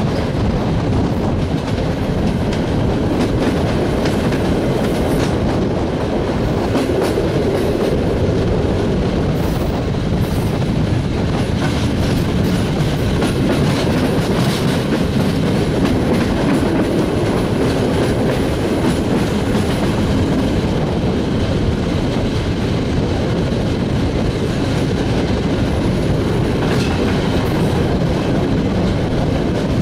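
Passenger train carriage rolling over the track, heard from an open coach window: a steady rumble of wheels on rail with scattered irregular clicks as they pass joints and points while the train runs into the station.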